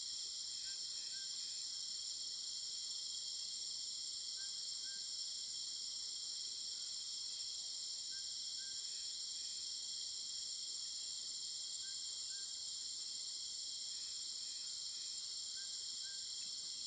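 Steady, high-pitched chorus of insects trilling continuously, with faint short chirps in pairs about every two seconds beneath it.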